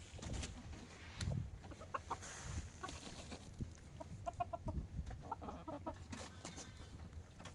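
Chickens clucking softly, with a run of quick short clucks about four seconds in.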